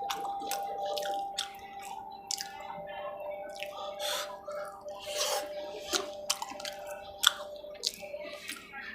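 Wet mouth sounds of a person eating a rice-and-curry meal: irregular lip smacks and chewing clicks, a few every second, over a faint steady hum.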